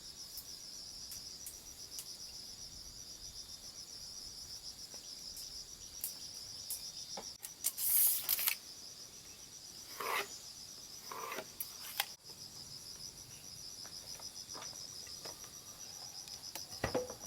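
Insects chirping in a steady, fast-pulsing high trill. A few brief scrapes and knocks come through the middle, the loudest a short hissing scrape about eight seconds in.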